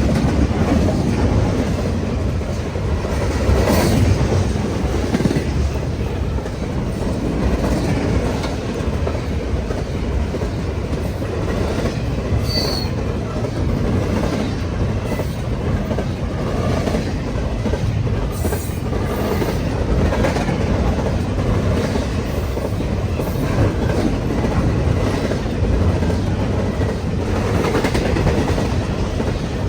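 Cars of a 154-car freight train rolling past, a steady rumble with wheels clicking over the rails and a brief high wheel squeal about twelve seconds in.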